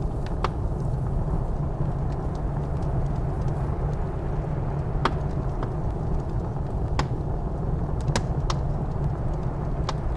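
Wood fire crackling in a fireplace, with a few sharp pops scattered through, over a steady low rush of blizzard wind.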